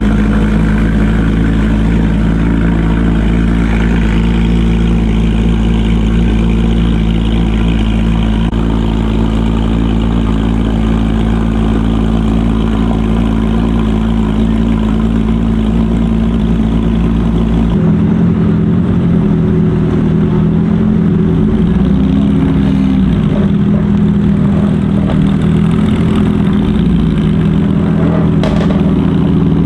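A car engine running steadily at idle, close by and loud. The sound changes abruptly about 18 seconds in.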